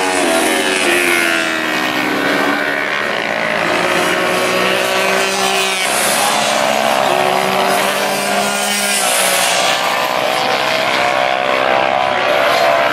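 Several racing motorcycles running at full throttle, their engine notes overlapping and rising and falling in pitch as they change gear and go past, with a rush of noise each time one goes by.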